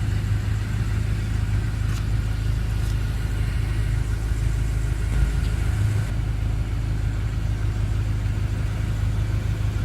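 2014 BMW M5's twin-turbocharged 4.4-litre V8 idling, a steady low hum.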